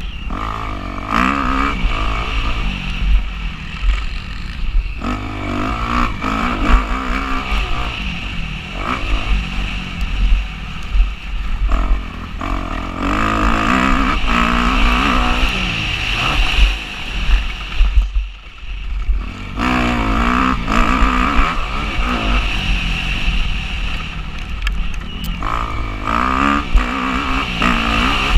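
Motocross bike engine revving up and falling back over and over as it is ridden hard, with heavy wind rumble on an action camera's microphone. The engine drops off briefly about two-thirds of the way through, then picks up again.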